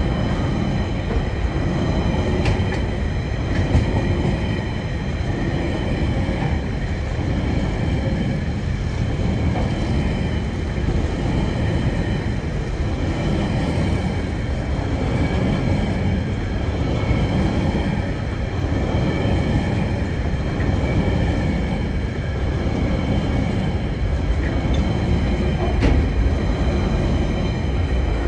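TasRail train rolling past at about 30 km/h: a steady, heavy rumble of wagon wheels on the rails that swells and eases, with a few sharp clicks.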